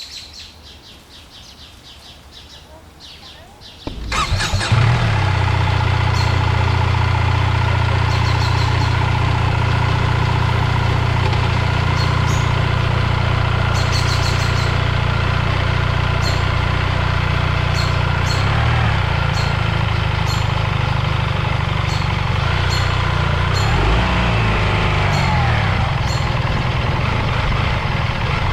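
Birds chirp over quiet surroundings, then about four seconds in a BMW R 1300 GS motorcycle's boxer-twin engine starts. It settles straight into a loud, steady idle, with the birds still chirping over it.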